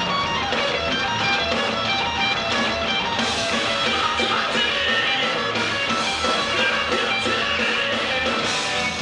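Live rock band playing at full volume, with electric guitars leading a dense, noisy passage. The song stops right at the end.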